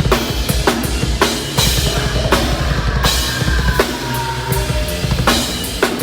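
Live metal band playing loud, with the drum kit to the fore: fast bass-drum hits under repeated cymbal crashes.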